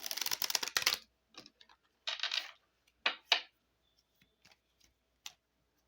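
A deck of Cigano (Lenormand) fortune-telling cards being shuffled by hand. A rapid run of card clicks fills the first second, shorter shuffling bursts follow about two and three seconds in, and a few single card taps come after.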